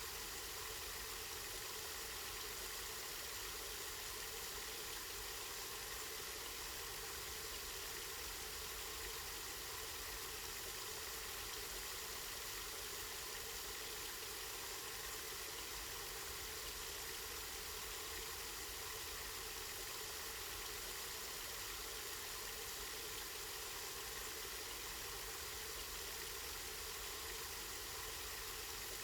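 Steady running water from a spring outlet, an even unbroken splashing flow.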